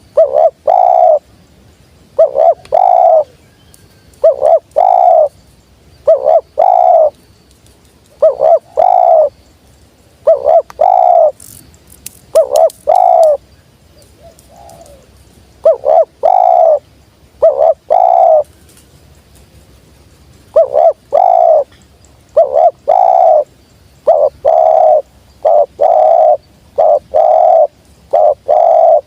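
Spotted dove (tekukur) cooing loudly and close, one short phrase of two or three notes about every two seconds, with a short pause near the middle.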